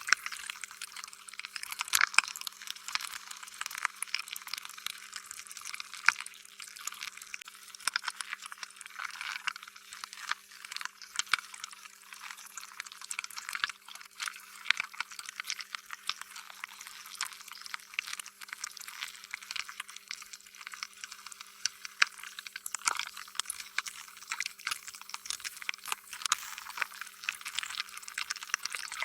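Slime being squished and stretched: a continuous, irregular stream of wet, sticky clicks and pops, with a few louder ones here and there.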